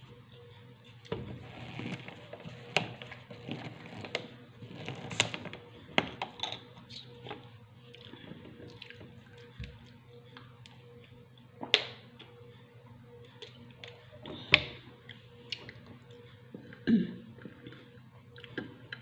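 Close-up eating sounds: wet chewing and lip smacks with scattered sharp clicks, several louder smacks in the second half, over a faint steady hum.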